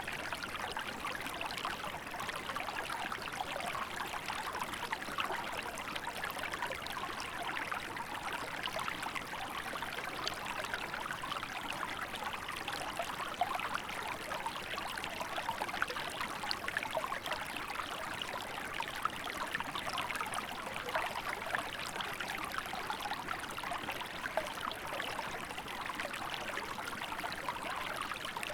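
Small river flowing steadily over stones, a constant babble of trickling water.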